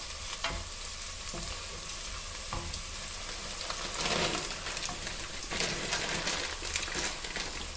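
Ground spices and dried shrimp frying in oil in a pot: a steady sizzle, stirred, with a few light knocks of the utensil against the pot.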